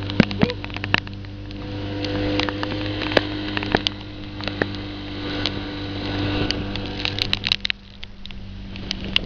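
Small speedboat's engine running steadily, with scattered sharp knocks over it. The engine sound dips briefly near the end, then returns.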